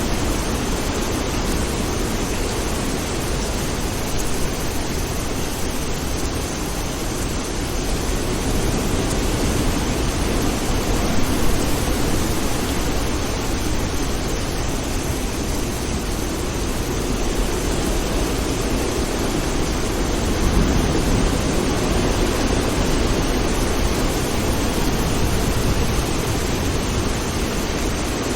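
Steady rain, an even rushing hiss with a deep low rumble beneath it that swells gently a few times.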